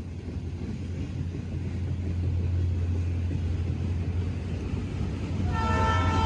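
Diesel freight locomotive approaching, its low engine rumble growing louder; near the end its air horn starts, a held chord of several tones.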